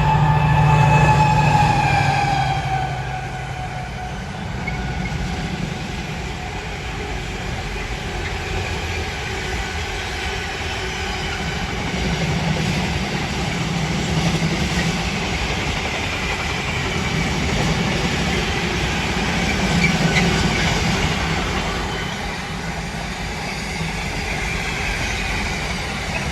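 Freight train passing on the main line. A tone falls in pitch over the first few seconds as the locomotive goes by, then the wagons rumble and clatter steadily over the rails.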